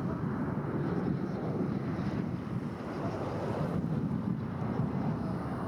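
Low, steady rumble of an Airbus A330's jet engines on takeoff, mixed with wind buffeting the microphone.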